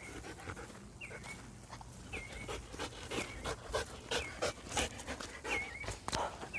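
A dog panting in quick, even breaths, with a short high chirp repeating about once a second.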